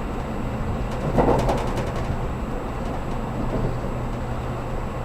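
Cabin running noise of a 783 series electric train at speed: a steady low rumble, with a short run of sharp clicking and clattering from the wheels on the track about a second in.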